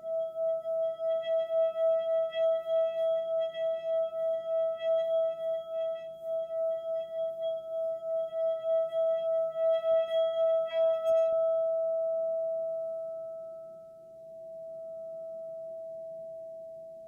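A singing bowl sounds one steady tone with a fast wavering pulse, about three beats a second. About eleven seconds in, the pulsing and upper overtones stop, and a plain tone rings on more softly, dipping and swelling.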